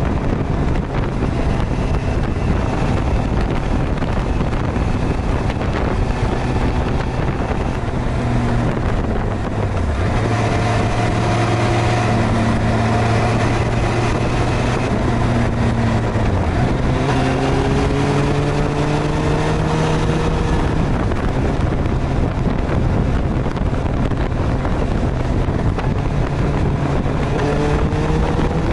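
Suzuki GSX-R1000R's inline-four engine running on the road under heavy wind rush on the microphone. Its pitch holds steady for a few seconds mid-way, dips briefly, then climbs as the bike accelerates, and climbs again near the end.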